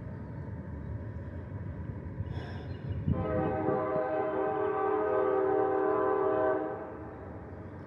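Train horn sounding one long, steady blast of about three and a half seconds, beginning about three seconds in, over a continuous low rumble.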